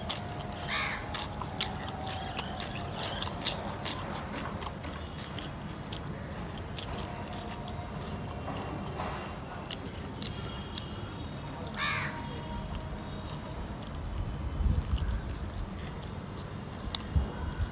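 A person eating close to the microphone: many small wet clicks and smacks of chewing. A bird calls twice in the background, about a second in and again near twelve seconds.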